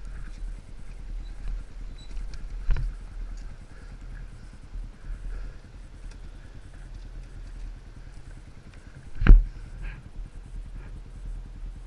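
Yamaha enduro motorcycle engine running at low revs over a rough trail, with two sharp knocks, the louder one about three-quarters of the way in.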